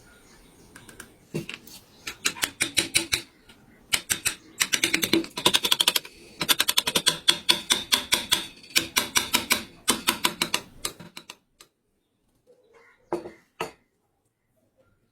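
Runs of quick, sharp taps of a hand carving tool working wood, about six a second, stopping about eleven seconds in, with a couple of last taps a little later.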